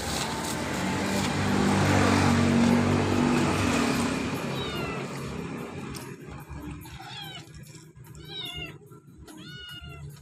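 A loud, rumbling noise swells and fades over the first four seconds. Then a kitten meows repeatedly, about five short, high meows in the last few seconds.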